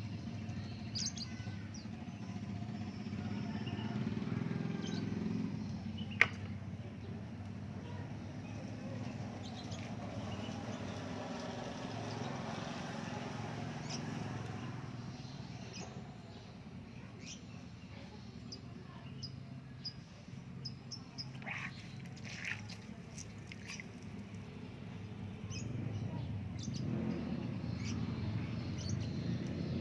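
Outdoor background: scattered short bird chirps over a steady low rumble, with one sharp click about six seconds in.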